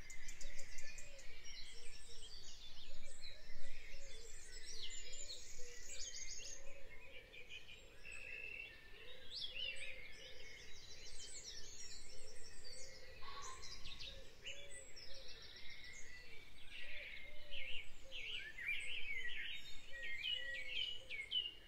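Background birdsong: several birds chirping and trilling in quick, varied phrases. A softer, lower call repeats steadily underneath.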